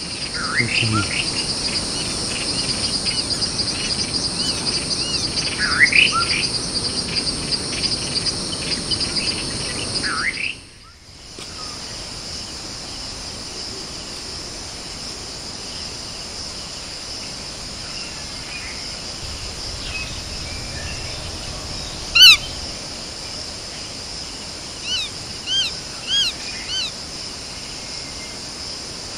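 Wild birds calling over a steady, high insect chorus. Several sweeping bird calls come in the first ten seconds; the sound breaks off briefly about eleven seconds in. After that come one sharp loud note a little past twenty seconds and a quick run of short chirps near the end.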